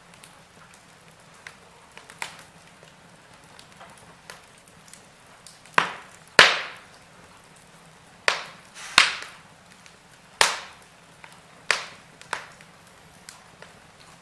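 Wood fire crackling in a fireplace: separate sharp pops and snaps from the burning logs. They come sparsely at first, then louder and closer together through the middle, the loudest about six seconds in.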